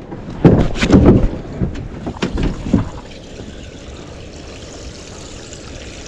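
A few loud knocks and thumps of a plastic kayak being handled, then, from about three seconds in, a steady rush of water pouring and trickling out of the hull as it drains.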